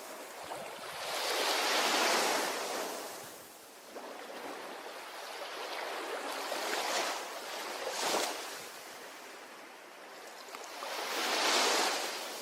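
Ocean waves breaking on a shore in slow swells of surf: a large wave about two seconds in, a smaller rush with a short sharp splash around seven to eight seconds, and another large wave near the end.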